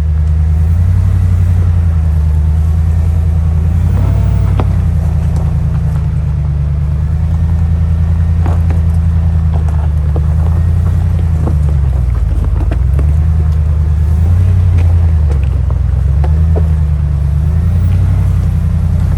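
Motor vehicle engine running steadily at low revs while driving, its pitch rising and falling a little, with scattered short knocks and rattles.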